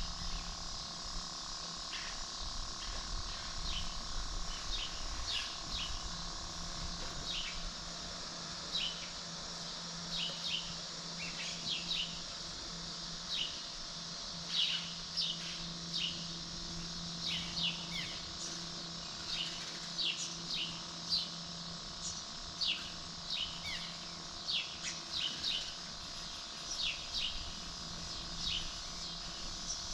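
Birds chirping: many short, high, downward-sliding chirps scattered irregularly throughout, over a steady high hiss and a faint low hum.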